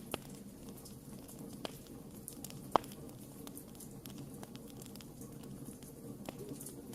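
Wood fire crackling: scattered small pops and snaps over a steady low background, with one sharp, much louder pop a little under three seconds in.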